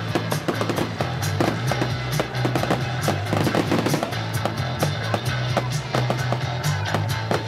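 Music with a steady bass line, mixed with the bangs and crackles of fireworks going off many times throughout.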